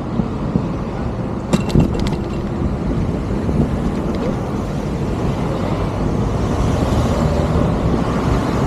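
Steady street-traffic and road noise heard while riding an e-bike through city traffic, with a few sharp clicks about a second and a half in.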